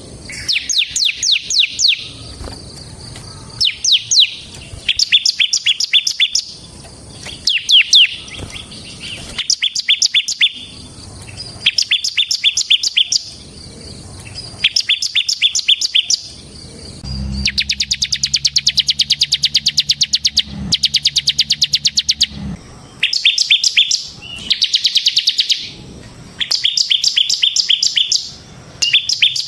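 Ciblek semi (bar-winged prinia) singing: bursts of rapid, high repeated notes, each about a second long with short pauses between, and near the middle one longer unbroken trill of about five seconds with a low hum under it.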